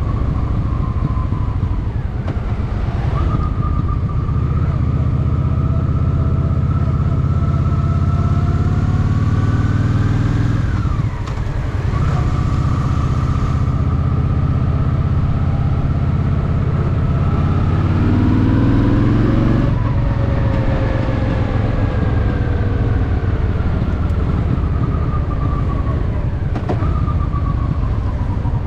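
Honda Shadow VT750's V-twin engine running under way, its note rising as it pulls through the gears, dipping at a shift about eleven seconds in and again near twenty seconds, then sinking slowly as the bike eases off toward the end.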